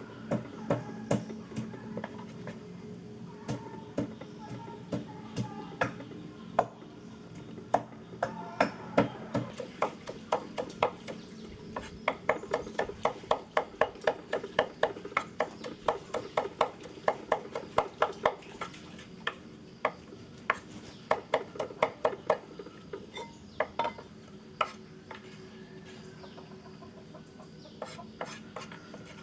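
A knife chopping on a wooden cutting board: scattered sharp strokes at first, then a fast, even run of about four to five strokes a second through the middle, tailing off to a few strokes near the end.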